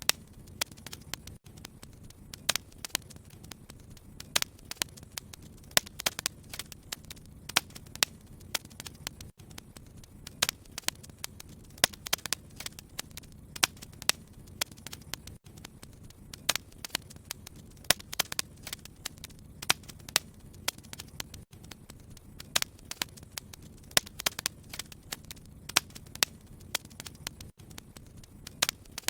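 Wood fire crackling: frequent sharp irregular pops and snaps over a steady low rumble of burning.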